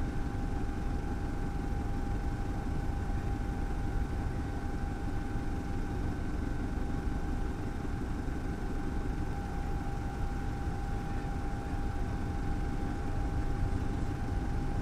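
Steady engine hum: a constant whine over a low rumble, unchanging throughout.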